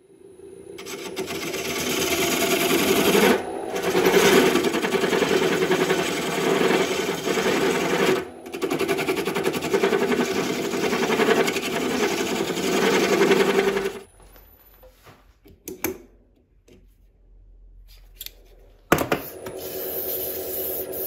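Power tool working wood, most likely a tool cutting a burl spinning on a wood lathe. It builds up over the first few seconds, runs with a fast even rhythm and two brief breaks, and stops abruptly about two-thirds of the way in. A few clicks follow, and a second tool sound starts near the end.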